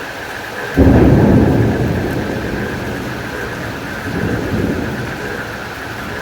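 A thunderclap breaks suddenly about a second in and rumbles away over a couple of seconds, with a second, weaker rumble around four seconds. Steady rain runs underneath with a continuous insect chirring.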